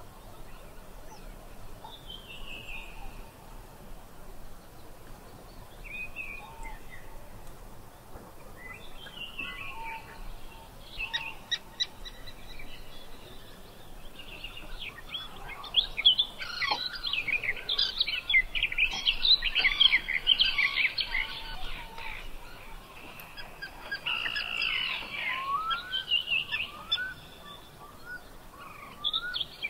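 Birds singing and calling in woodland: a few scattered falling whistles, then a dense run of rapid chirps about halfway through, and rising whistles near the end.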